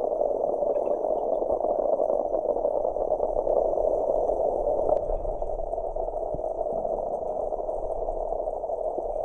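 Steady, dense crackling underwater drone, one of the strange sounds heard while freediving at sunset.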